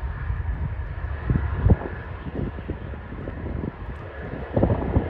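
Jet airliner's engines running: a low rumble with a steady high whine above it.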